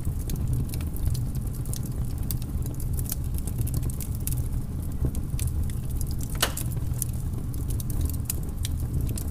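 Flat paintbrush scraping and dabbing acrylic paint on textured canvas paper: irregular small clicks and ticks, with one longer scrape about six and a half seconds in, over a steady low rumble.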